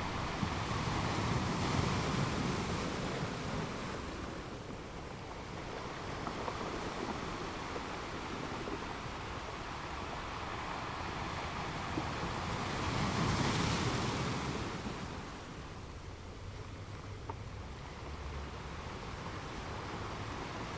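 Ocean surf: a steady wash of waves, with two louder swells as waves break and rush in, one at the start and one about two-thirds of the way through.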